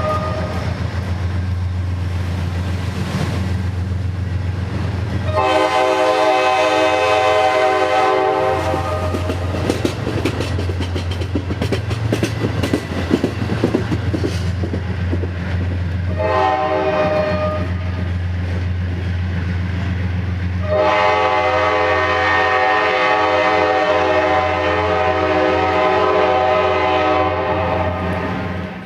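Diesel locomotive sounding its multi-chime air horn over the steady rumble of its engine and the clack of wheels on the rails. There is a long blast, a short one, and a final long blast held about eight seconds. Together with the blast that ends just as the sound opens, this follows the long-long-short-long pattern of a grade-crossing signal.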